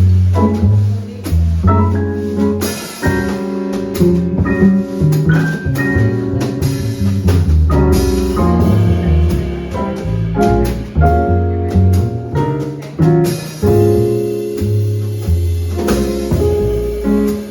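Live jazz played on drum kit, piano and bass: the bass plays strong low notes under piano lines, with cymbals and drums keeping time.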